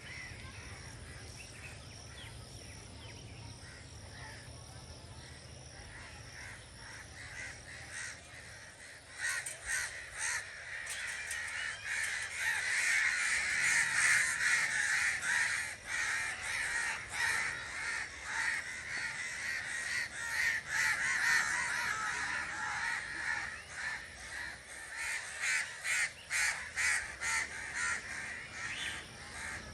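A flock of birds calling, many harsh calls overlapping. The calling starts about eight seconds in and grows into a dense, loud chorus that rises and falls quickly.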